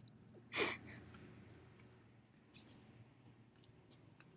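Faint scattered clicks and rustles of small objects being picked up by hand, with one short hiss about half a second in.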